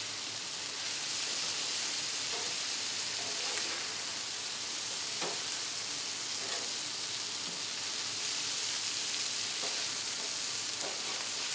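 Chicken wings sizzling steadily on a hot Griddle Master flat-top griddle as they are turned with metal spatulas, with a few short spatula scrapes against the griddle.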